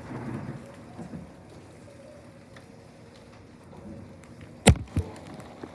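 Rain falling in a storm. About four and a half seconds in comes a sudden, loud crack, and a second, smaller one follows a moment later.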